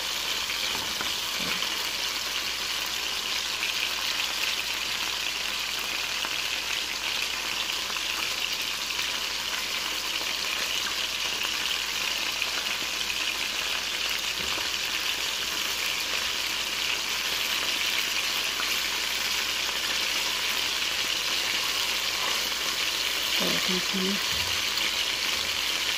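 Chicken pieces frying in hot oil in a metal wok: a steady sizzle, with metal tongs now and then moving the pieces.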